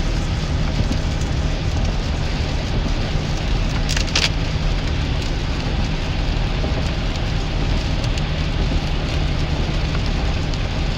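Heavy rain pelting a 2001 GMC Sierra pickup while it drives, heard from inside the cab over a steady low engine and road hum. A brief sharp sound about four seconds in.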